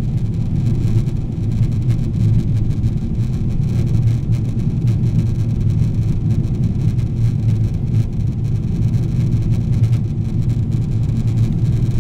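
Steady low rumble of engine and airflow noise inside the cabin of a Boeing 777-300ER descending toward landing.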